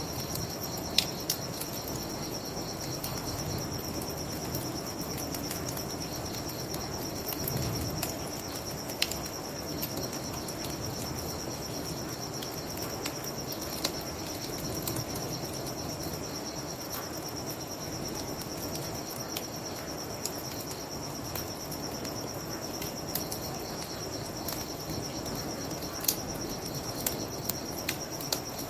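Wood fire crackling with scattered sharp pops, over a steady high trilling of crickets and a low even rush of flowing river water.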